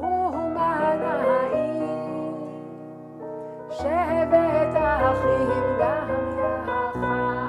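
A woman singing a Hasidic nigun melody over sustained keyboard chords, with a new sung phrase beginning about four seconds in.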